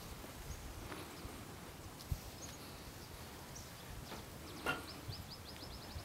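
Quiet outdoor stillness with a small bird calling: a few scattered high chirps, then a quick trill of short, evenly spaced chirps in the last second and a half. A few faint knocks and rustles are heard under it, from the flag being handled.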